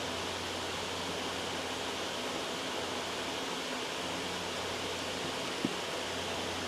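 Loud, steady white noise with a faint low hum beneath it, and a single brief soft knock about five and a half seconds in.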